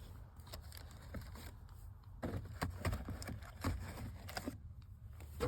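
Scattered light knocks, clicks and rattles of small loose items being handled and put into a pickup truck's glove box, with a sharper knock near the end.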